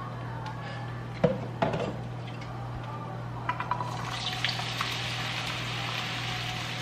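Food frying in a pan on a stovetop: a few sharp knocks about a second in, like a utensil against the pan, then steady sizzling from about four seconds in, with a constant low hum underneath.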